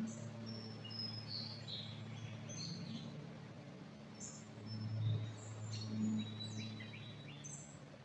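Several songbirds chirping and whistling in short high notes throughout, over a low steady rumble that swells briefly about five seconds in.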